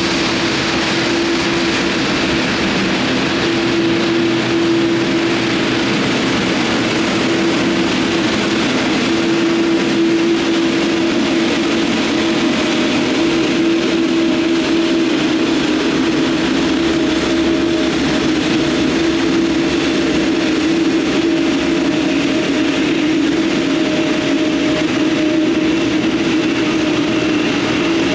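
Jet airliner engines running at close range, a loud steady rush with a constant low whine held throughout.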